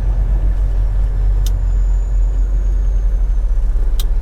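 Steady low drone of a semi truck's engine and road noise heard in the cab while driving, with two sharp ticks, one about a second and a half in and one near the end.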